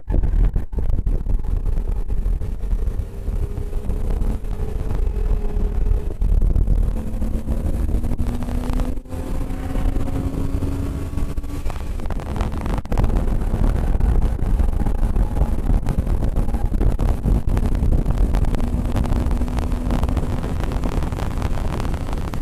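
Car engine pulling hard during track driving, its pitch climbing slowly for several seconds, dropping back about twelve seconds in, then climbing again. A heavy low rumble of road and wind noise sits under it.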